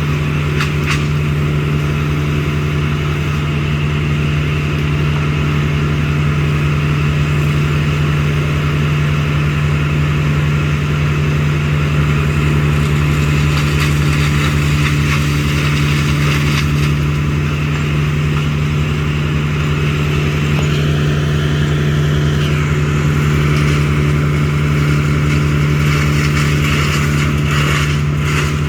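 An engine running steadily at a constant speed, with an unchanging low hum throughout. A few faint clicks sound near the start and again near the end.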